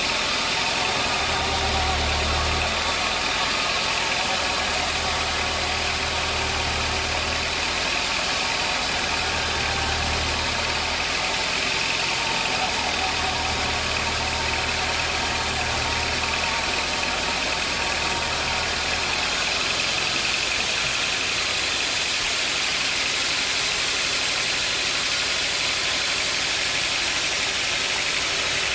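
Sawmill machinery running steadily with an engine-like drone. A deep hum swells and drops in several stretches during the first two-thirds, then stays low.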